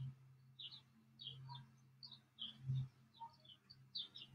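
Faint bird chirping: short high notes, often in pairs, repeating every half second or so, over a low steady hum.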